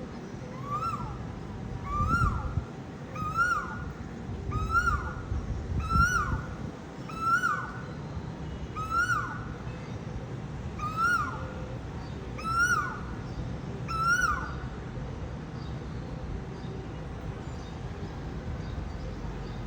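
Asian koel calling, a repeated two-part rising-then-falling 'ku-oo' note given about ten times, roughly once every second and a half, then stopping.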